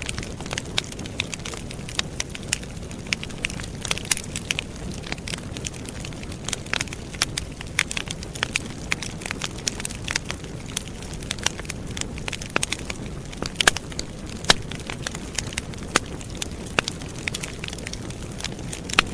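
Wood campfire crackling, with frequent sharp snaps and pops scattered irregularly over a steady low rush of burning flames.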